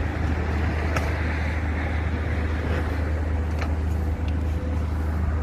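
Steady low rumble of an engine running, with a few faint clicks over it.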